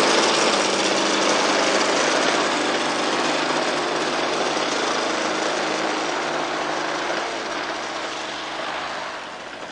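Small single-cylinder engine of an RC model airplane running steadily, slowly getting quieter.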